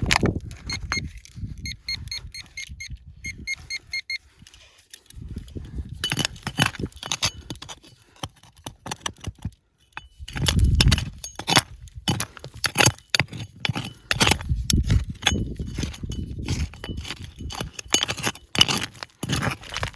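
Small hard objects clinking and rattling in a series of sharp clicks and knocks, with a run of short, evenly repeated ringing tones in the first few seconds.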